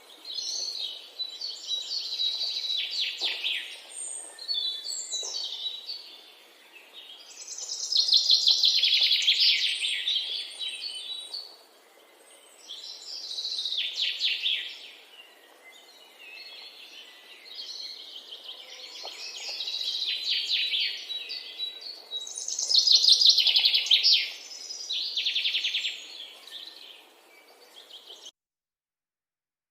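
A songbird singing: a series of high, rapid trilled phrases every few seconds. The song cuts off abruptly near the end.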